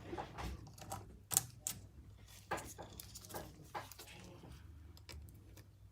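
Irregular light clicks and taps, some louder than others, over a steady low hum.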